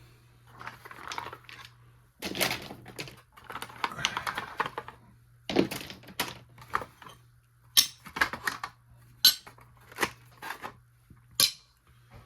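Hard objects being picked up, shifted and set down on a workbench while it is cleared: a string of irregular clicks, clacks and knocks, with rustling between them and a few sharper knocks in the second half.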